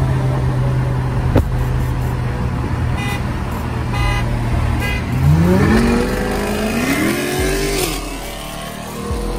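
Car engine heard from inside the cabin, droning steadily at highway speed, then revving hard from about five seconds in: it climbs, shifts once, climbs again and drops off near the eight-second mark.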